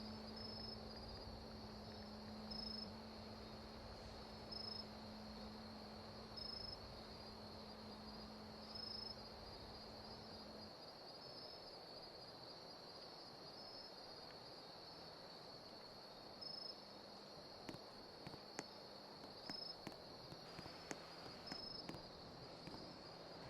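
Crickets trilling steadily, with a louder chirp about every two seconds. A low rumble underneath stops about ten seconds in, and a few faint clicks come near the end.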